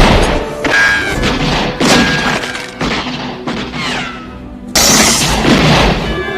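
Dramatic film score music under a series of crashes and breaking, shattering impacts about a second apart, the heaviest crash about five seconds in.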